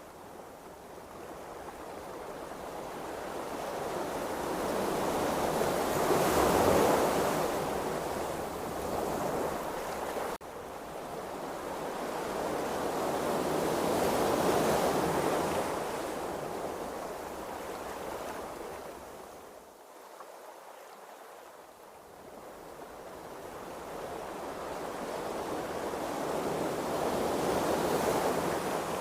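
Ocean waves washing, in slow swells that rise and fall about every eight seconds, with three peaks through the stretch.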